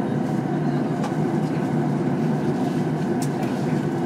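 Steady hum and air hiss of the cabin ventilation inside a Boeing 737 MAX 8 airliner cabin, with a couple of faint clicks about three seconds in.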